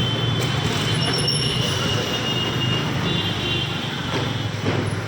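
A motor running steadily, a low hum under a spread of hiss.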